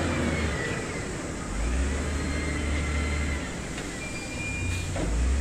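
Diesel engine of a heavy earthmoving machine running, its low rumble swelling and easing in surges as it works. A thin high whine rises and falls over it.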